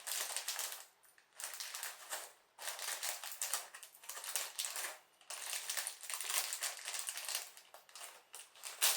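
Hands rummaging through a pile of loose plastic LEGO pieces: a dense clatter of small clicks in several bouts with short pauses between.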